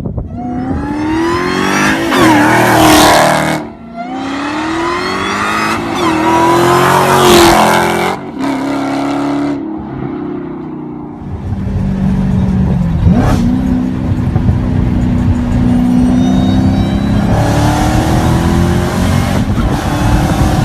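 Dodge Challenger Hellcat's supercharged 6.2-litre V8 with the mufflers deleted, under hard acceleration: the pitch climbs, drops sharply at a shift about four seconds in, and climbs again. From about halfway on it runs at a steadier, slowly rising pitch.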